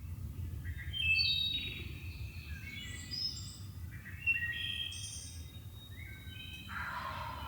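Several songbirds singing and calling over one another, with short high chirps and trills throughout, over a faint low background rumble.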